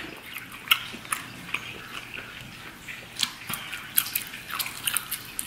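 A person chewing and biting into boiled octopus tentacle: irregular wet clicks and smacks, a few every second.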